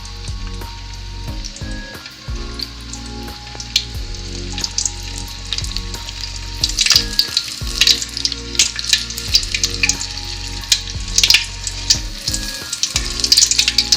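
Flour-coated chicken pieces deep-frying in hot oil: a steady sizzle with crackling pops, which gets busier and louder about halfway through.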